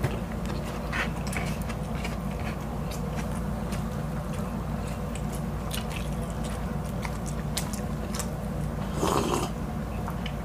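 Close-miked chewing: wet mouth clicks and smacks scattered throughout, over a steady low hum. About nine seconds in comes a short slurping sip from a mug.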